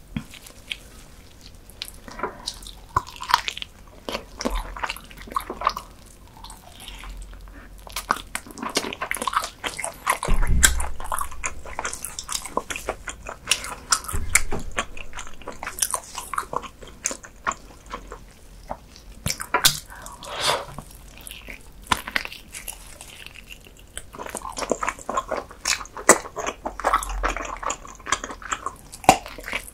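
Close-miked eating sounds: a person biting and chewing sticky, chewy food, with many irregular wet clicks and smacks and a few dull knocks.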